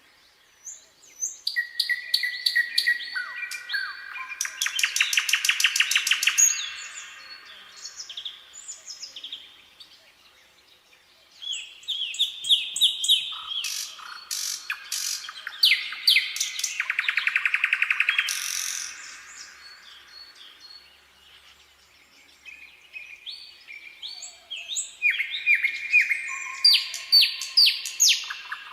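A songbird singing long, varied phrases of quick chirps with fast rattling trills, in three bouts broken by short pauses.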